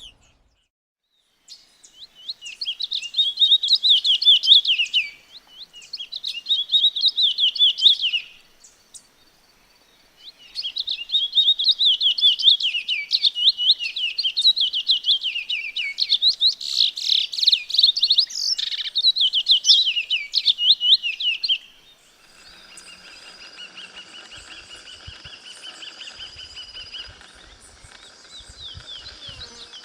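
A bird singing in three bouts of rapid, tightly repeated high chirps, the last bout long; about two-thirds of the way through the song stops and a quieter, steady background of held high-pitched tones takes over.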